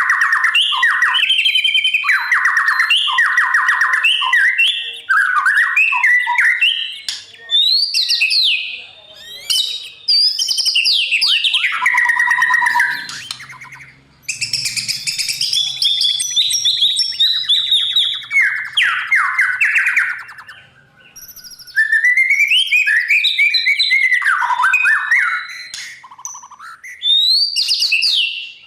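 White-rumped shama singing a loud, varied song of rapid repeated notes, rising and falling whistles and chattering phrases, with short pauses between phrases.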